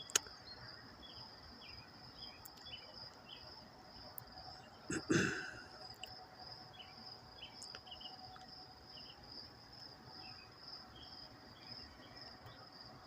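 Quiet outdoor ambience: a steady high-pitched insect trill with scattered short bird chirps, and one brief louder sound about five seconds in.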